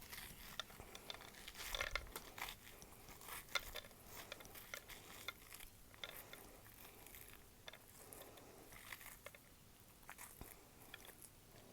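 Faint, irregular scraping and soft crunching as seeds and pulp are scraped out of an overgrown zucchini kept for seed.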